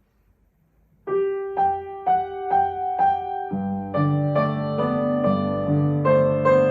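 Gentle keyboard music in a piano-like tone, starting about a second in with a simple melody of notes struck about twice a second, then filling out with chords and a bass line from about halfway through.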